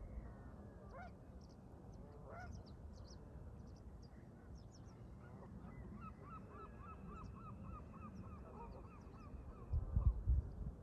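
Canada geese honking: several rising calls in the first few seconds, then a quick run of repeated calls from about halfway, with small birds chirping high above. A low wind rumble runs underneath, and a loud gust of wind hits the microphone near the end.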